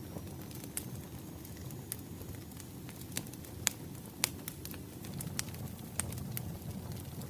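Wood fire crackling: irregular sharp pops and snaps over a low, steady rumble, two louder pops a little past the middle.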